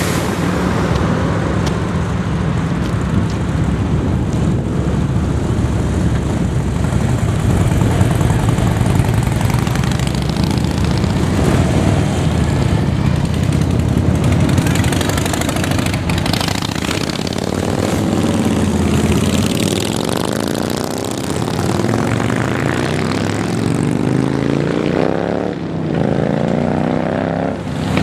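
Several motorcycle engines running with a steady low rumble. From a little past halfway, engines rev up again and again, their pitch rising, as bikes accelerate.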